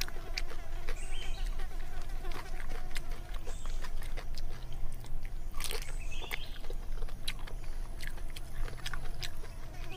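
A person chewing and lip-smacking while eating roasted pork by hand: many short, wet clicks and smacks, irregularly spaced.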